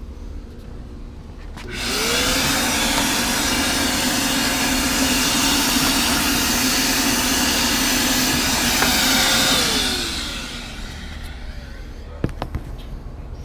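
An electric fan motor moving a loud rush of air, spinning up with a quick rising whine about two seconds in, running steadily, then winding down about ten seconds in. A few light clicks follow near the end.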